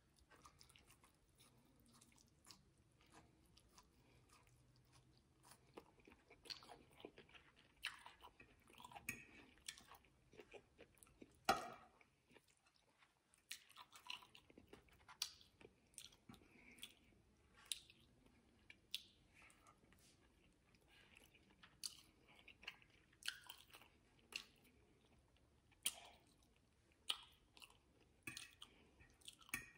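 Faint close-miked chewing and mouth sounds of a person eating asparagus and salmon: scattered small wet clicks and smacks, with one sharper click about a third of the way in.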